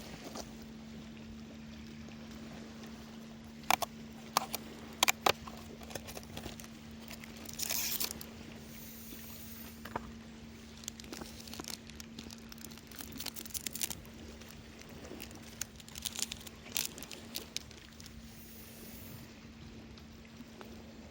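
Scattered clicks and knocks of camp gear being handled, with short spells of crinkling like packaging being opened, over a steady low hum.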